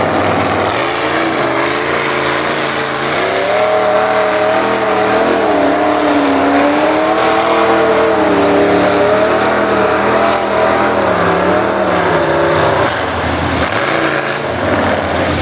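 Modified 4x4 mud truck engine revving hard under load, its pitch rising and falling as the throttle is worked, with a short drop near the end before it climbs again.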